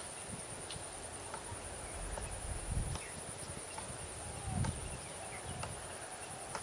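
Insects trilling steadily at a high pitch, with short bird chirps scattered throughout. There are a couple of low thuds about three and four and a half seconds in.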